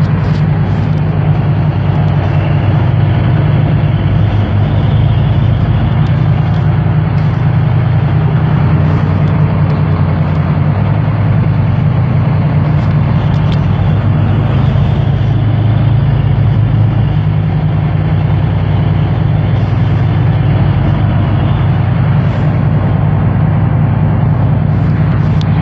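Boat's engine running steadily under way, a loud, even low drone.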